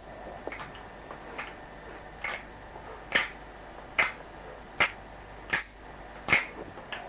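Finger snaps in a slow steady beat, about one every 0.8 seconds, a percussion part being recorded for a song. The first few are faint, and they grow louder from about three seconds in.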